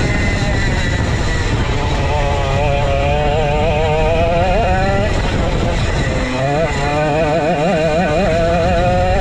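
Vintage racing kart's 135cc Sudam engine running hard, its pitch wavering up and down with the throttle, dipping about five seconds in and climbing again.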